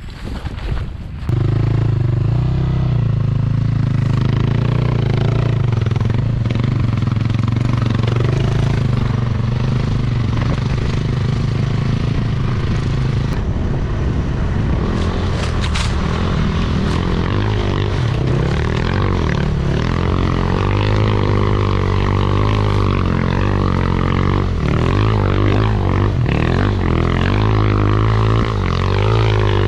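Background music: a didgeridoo drone that starts about a second in and holds one low pitch, its overtones wavering in slow sweeps later on.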